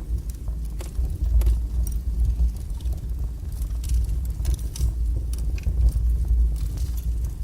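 Wood fire burning in a fireplace: a steady low rumble of the flames with frequent small crackles and pops from the burning logs.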